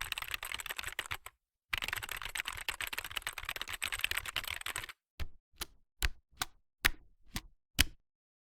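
Computer keyboard typing: a fast run of key clicks with a short break, then a few single keystrokes about half a second apart.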